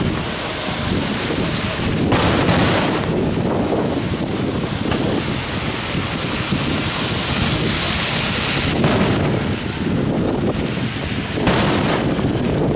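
Aerial firework shells bursting in deep thunder-like booms, one about two seconds in and two more near the end, over steady wind buffeting the microphone.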